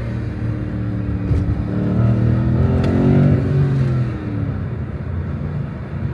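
BMW M850i's twin-turbo V8 pulling under acceleration on the road. It swells louder about two to three seconds in, then eases off with a falling pitch.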